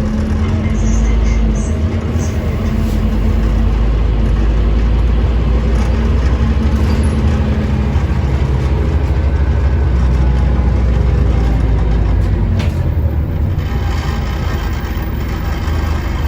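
Scania OmniCity bus's diesel engine running with a steady low rumble, along with road and body noise.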